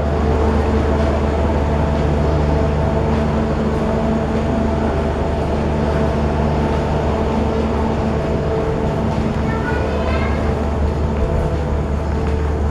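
Diesel-hauled passenger train: a steady low rumble with a steady engine drone, unchanging throughout, with a brief higher sound about ten seconds in.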